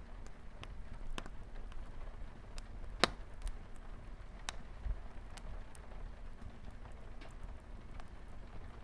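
Wood fire crackling with scattered small pops, one sharp louder pop about three seconds in, over a steady low hush of light rain on a window.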